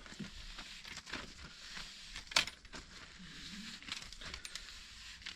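Small metal parts of a petrol engine's recoil pull-starter being handled and wiped clean of gritty grime: light scrapes and scattered clicks, with one sharper click about two and a half seconds in.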